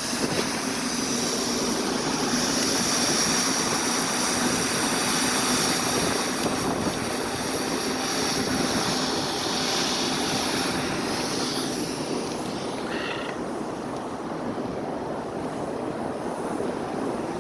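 Steady roar of city street traffic with a low engine hum running under it, easing a little after about 12 seconds; a short high-pitched sound cuts in about 13 seconds in.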